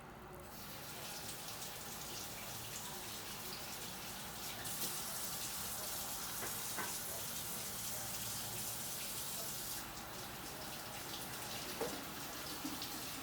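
Water running with a steady rushing hiss, louder for about five seconds in the middle, with a couple of faint clicks.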